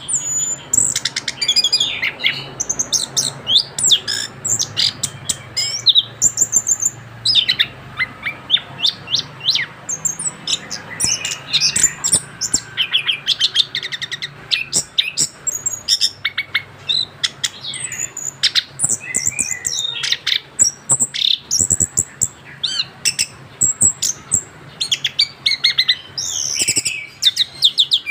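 Young male chestnut-capped thrush, freshly moulted, singing in long continuous rolls of rapid, high, varied notes, with only short breaks about a quarter of the way in and again past the middle.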